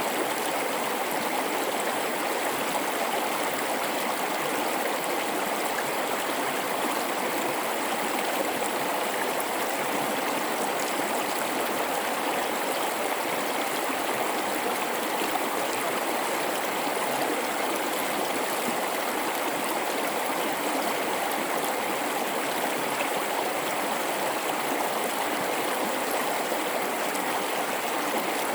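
A mountain river flowing through a rocky gorge, a steady rushing and babbling of water that stays even throughout.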